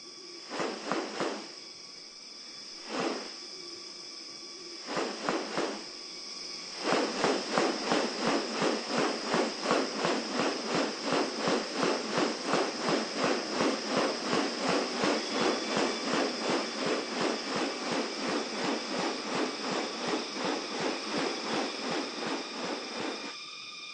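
Rainforest ambience: steady, shrill insect tones, with a few separate animal calls, then from about seven seconds in a long, even series of sharp calls, about three a second, that stops near the end.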